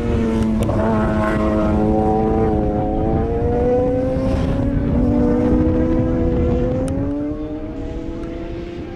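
Superbike racing motorcycle engines at high revs, the engine note rising and falling with gear changes; the sound eases somewhat after about seven seconds.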